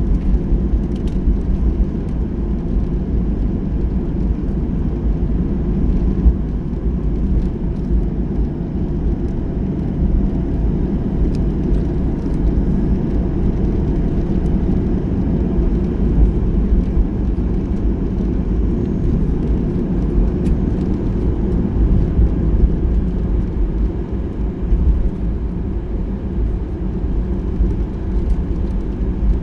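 Steady low rumble inside the cabin of a Boeing 737-800 taxiing after landing, with its CFM56-7B engines at taxi idle and the aircraft rolling along the taxiway.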